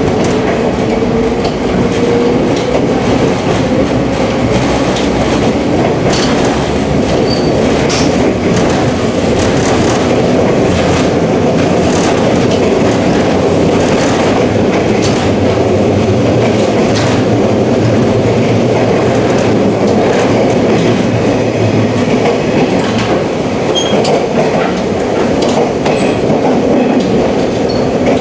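485-series 'Resort Yamadori' electric train running at speed, heard from inside the carriage: a steady rumble of wheels on rail with scattered clicks of the wheels over rail joints.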